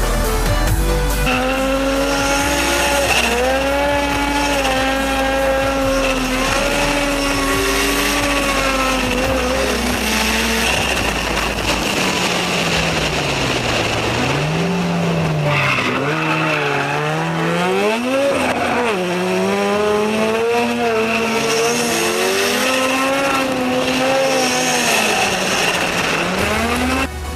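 Drift car engine revving hard, its pitch repeatedly rising and falling with a deep drop and climb midway, over a steady high tire squeal as the car slides.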